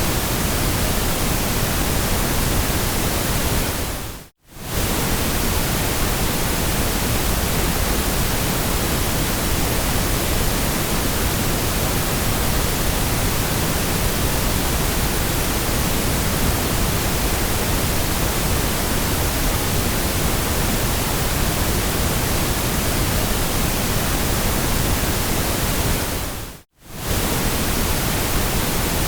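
Steady hiss of generated white noise for sleep, even across all pitches. It dips to silence and back within about half a second twice, about four seconds in and near the end.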